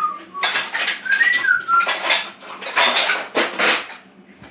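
Kitchen items clattering and rattling in a string of short bursts as they are rummaged through. A short whistled phrase comes over it about a second in.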